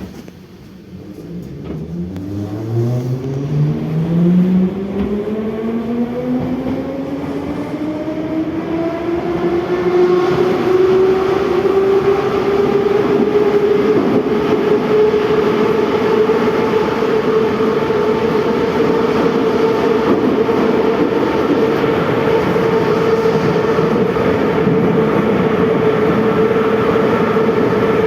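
81-717/714 metro train pulling away from a station. The traction motors' whine rises steadily in pitch for about the first twelve seconds as it accelerates, then holds at one steady pitch at running speed, over loud wheel and tunnel noise.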